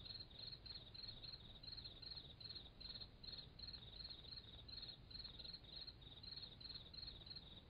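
Faint crickets chirping in a steady rhythm, about three chirps a second, cutting off suddenly at the end.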